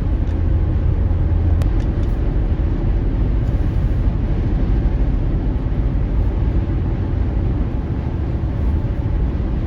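Steady rumble of a car driving, with low road and engine noise and a hiss above it and no distinct events.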